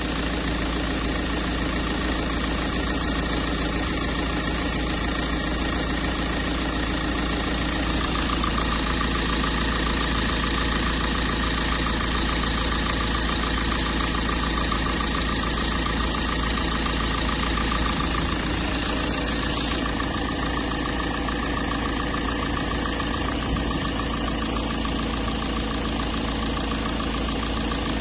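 Ford Transit van engine idling steadily, a little louder, with an added whine, for a stretch in the middle.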